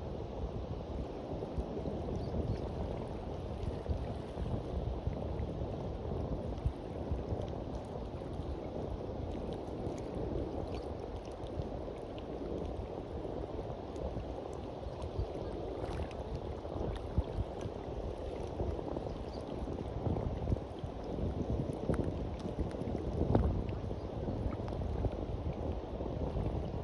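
Sea waves washing and lapping on a beach, a steady rushing wash that swells and eases without a break.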